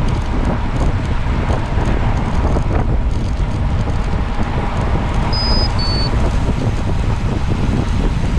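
Steady, loud wind rumble buffeting the microphone while moving along a road, with two short high-pitched tones about five and a half and six seconds in, the second slightly lower.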